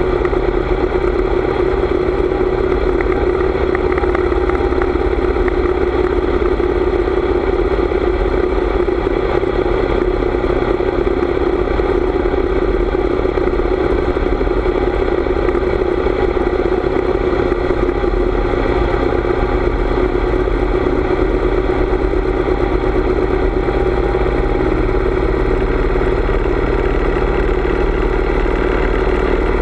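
Harley-Davidson V-twin motorcycle engine running at a steady cruising speed, with the rush of wind over the bike.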